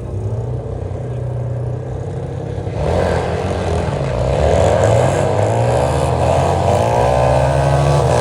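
Motorcycle engine idling with a steady low hum; about three seconds in, an engine revs up and its pitch climbs slowly and steadily, getting louder.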